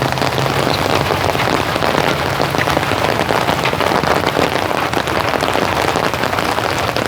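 Steady rain falling, with many individual drops striking close by in a dense, even hiss.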